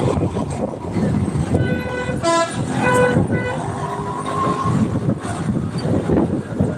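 Steady running noise of a moving vehicle, with a horn sounding several short toots about one and a half to three and a half seconds in.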